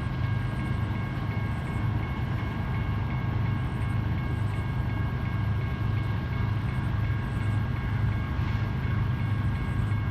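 Diesel-electric locomotives of a BNSF grain train (an EMD SD70ACe and GE ET44C4, ES44C4 and ES44AC units) running with a steady, pulsing low rumble. A few steady high-pitched tones sit above it.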